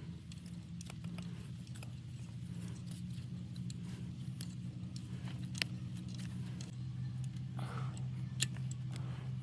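Metal tools and engine parts clinking and clicking now and then while being handled, with two sharper clicks, about six and eight and a half seconds in. A steady low mechanical hum runs underneath.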